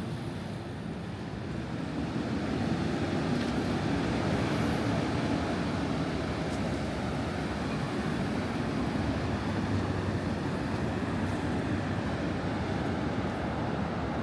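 City street traffic: a steady low rumble of passing vehicles that grows a little louder about two seconds in.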